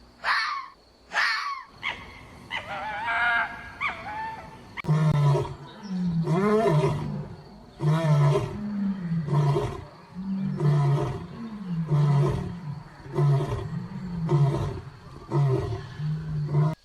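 Lion roaring in a long series of deep calls, about one a second, each rising and falling in pitch. A few shorter calls come before it.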